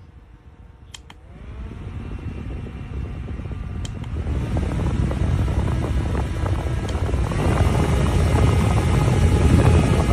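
Small folding USB desk fan running, its motor whine and rush of air stepping up in speed and loudness about three times, each step preceded by a button click.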